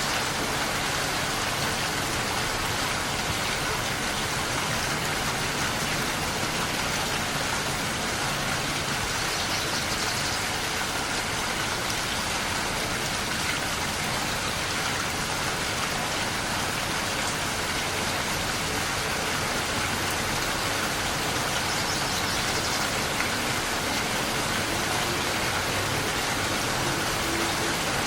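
Steady rain falling, an even hiss that holds constant with no let-up.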